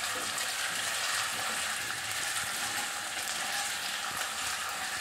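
Diced potatoes with cumin, curry leaves and green chillies frying in hot oil in a non-stick kadai over a high gas flame: a steady sizzle with fine crackling.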